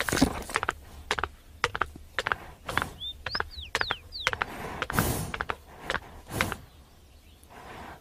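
Pony pulling at and chewing dry hay: a run of crisp crunches and rustles with a few short louder bursts. Small birds chirp a few times in the middle.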